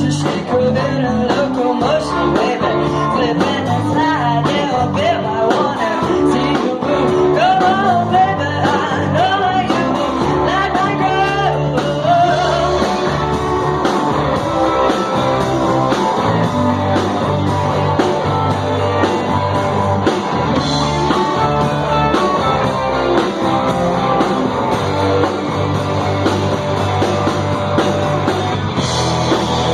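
Live rock band playing loud garage blues-punk with guitar and singing; the sung lines fall away about halfway through and the band plays on.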